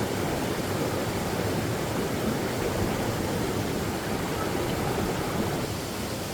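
Waterfall rushing steadily into a pool, a dense even roar of falling water that eases slightly near the end.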